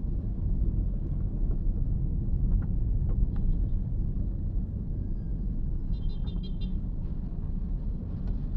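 Steady low rumble of motor vehicles on a road, with a few faint knocks and a short run of rapid high-pitched pips about six seconds in.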